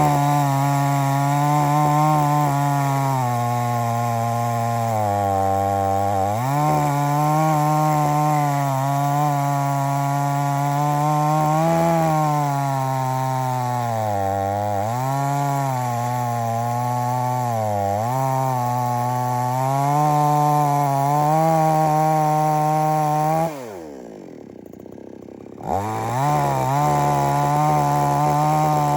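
XtremepowerUS two-stroke gas chainsaw running at high revs while cutting through wood, its pitch sagging and recovering again and again as the chain bites under load. About three quarters of the way through the throttle is let off and the engine winds down to a low idle for a couple of seconds, then revs back up to full speed.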